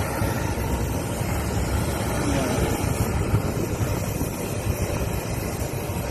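Steady low rumbling noise with no clear rhythm or single event.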